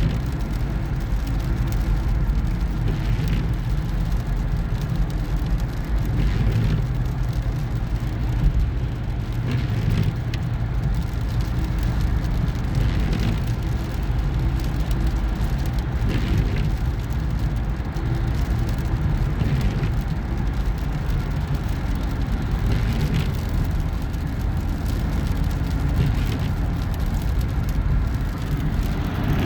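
Steady road and engine rumble with tyre hiss inside a moving car, with a faint swish recurring about every three seconds.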